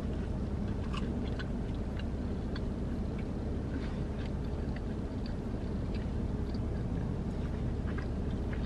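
A person chewing a mouthful of toasted steak and cheese sub, with faint, scattered small mouth clicks, over a steady low hum.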